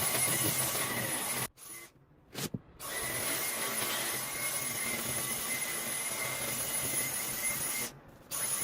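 An electric appliance motor running with a steady rushing noise and a high whine. It cuts out abruptly about a second and a half in, starts again about a second later, and stops near the end.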